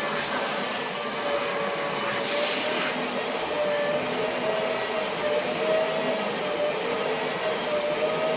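Vacuum cleaner running steadily, its motor whine wavering slightly in pitch.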